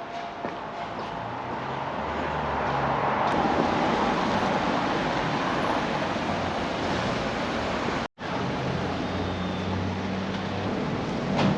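City street traffic, a motor vehicle's engine passing close by and swelling to a peak a few seconds in before easing off. The sound drops out abruptly for a moment about eight seconds in.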